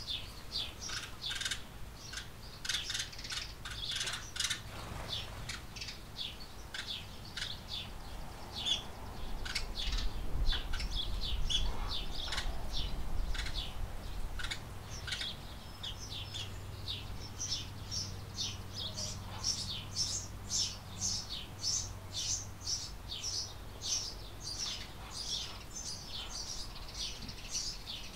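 Small barn birds chirping continuously, a dense run of short high chirps that become steadier and more regular in the second half. A low rumble swells under them around the middle, and a faint low hum comes in later.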